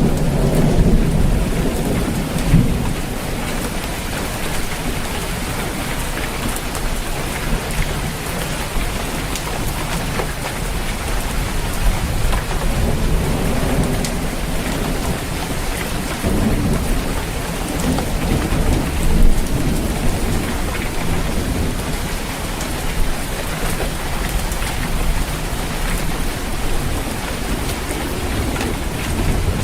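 Steady rain pattering on a roof, with rolls of thunder rumbling near the start and again about two-thirds of the way through.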